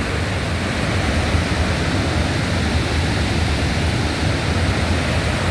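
Barron Falls in heavy flood, swollen by about 3 metres of rain in a week: a loud, steady rush of falling water that never lets up.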